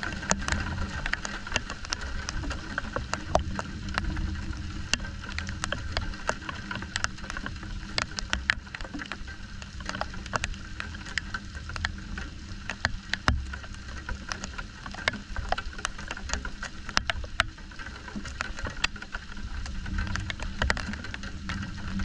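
Rain during a thunderstorm: scattered drops ticking sharply and irregularly close by, over a low rumble that swells and fades.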